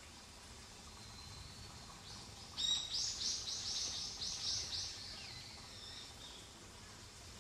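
A songbird singing a quick run of about eight high, arched notes, starting about two and a half seconds in and lasting about two seconds, over faint woodland background.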